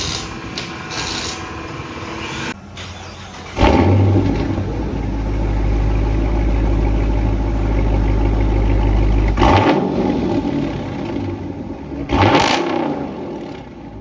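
A Dodge Charger R/T's 5.7 Hemi V8 with its mid mufflers deleted starts about three and a half seconds in and settles into a loud, deep idle. It revs twice near the end. A steady machine hum is heard before it starts.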